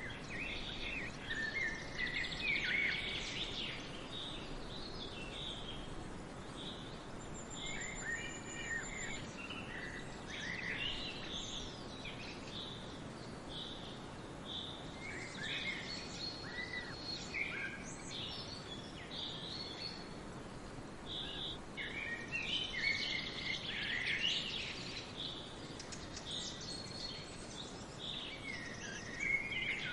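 Several small songbirds chirping and calling in quick short notes, now dense, now sparse, over a steady background hiss.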